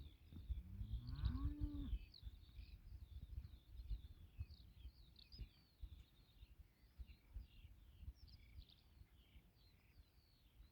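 A chorus of small birds chirping continuously, with a cow mooing once in a single rising-then-falling call during the first two seconds. A low, uneven rumble sits underneath.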